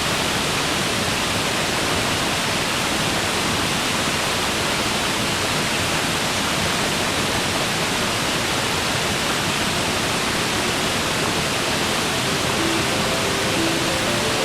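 Waterfall rushing, a steady even roar of falling water. Near the end, a few soft, held musical notes begin to come in.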